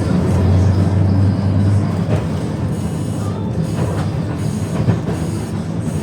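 Bendigo heritage tram running along street track: a loud, steady low rumble of wheels on rail and traction motors.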